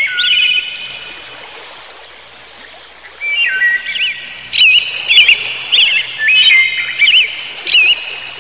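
Bird chirps, warbling and repeated, each trailing off in an echo. A short burst comes at the start, then after a lull a steady run of chirps starts about three seconds in.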